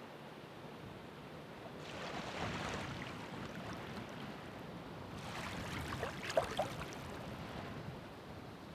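Ocean waves breaking and washing up the shore: one wave surges in about two seconds in and a second, larger one about five seconds in, with a few brief sharp splashes at its peak.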